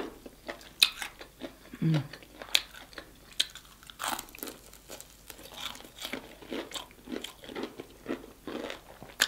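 Close-up eating sounds of crispy fried chicken: sharp crunches as the crust is bitten, then steady chewing about twice a second from about four seconds in.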